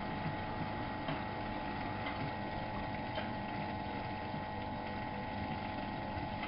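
Miele Novo Super W933 washing machine running, a steady mechanical hum with faint clicks about once a second.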